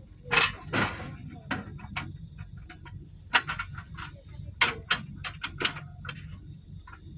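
A series of sharp knocks and clatters, some in quick clusters, over a steady low hum.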